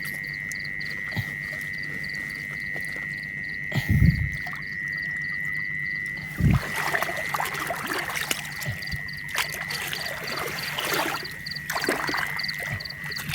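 A frog and insect chorus calling steadily: a continuous high drone with a regular pulsing chirp. About halfway in a thump is followed by noisy rustling and knocking close by, with another thump a little earlier.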